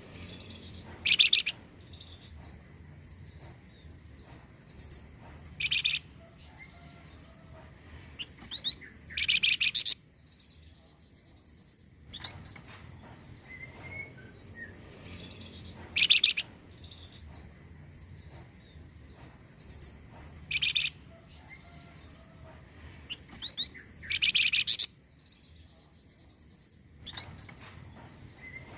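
Recorded song of the bird known in Indonesia as the flamboyan, played as a lure call: loud bursts of rapid, high chattering notes every few seconds, with softer chirps between them. The sequence repeats about every 15 seconds as a loop.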